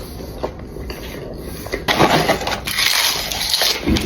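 Close-miked crunching as someone bites and chews tortilla chips, getting louder and denser about two seconds in.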